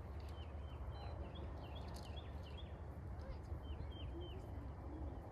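Small birds chirping: short falling chirps in quick runs of three or four, several times over, above a low steady rumble.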